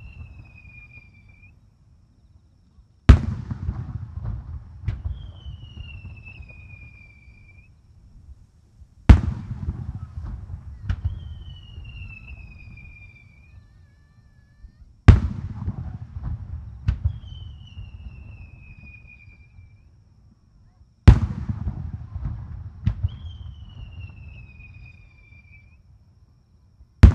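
Aerial fireworks bursting: a loud bang about every six seconds, each followed by crackling and a second sharper report under two seconds later. After each pair comes a high tone sliding downward.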